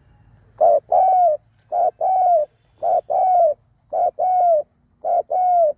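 Spotted dove cooing: five coos about a second apart, each a short note followed by a longer note that falls at the end.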